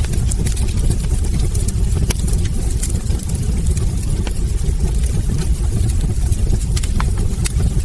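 Wood fire burning in a fireplace: a steady low rumble with frequent sharp crackles and pops, one louder pop about a second before the end.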